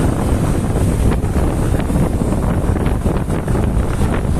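Strong wind buffeting the microphone: a loud, steady, blustery rumble with no clear tones.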